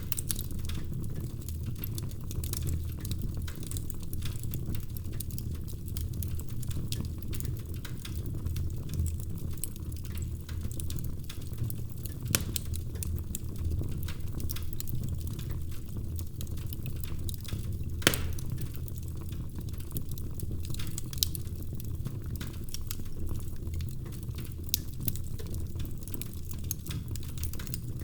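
Wood fire burning in a fireplace: a steady low rumble of flames with constant small crackles and a few sharper pops, one of the loudest about 18 seconds in.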